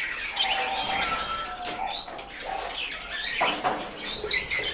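Lovebirds chirping and chattering, with a quick run of sharp, high calls near the end.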